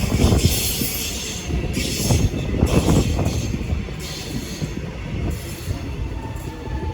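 V/Line VLocity diesel multiple unit pulling away on the rails: a low rumble of engine and wheel noise that gradually gets quieter.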